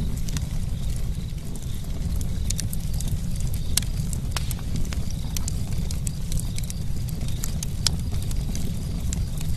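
Campfire burning, with a steady low rumble under frequent irregular sharp crackles and pops.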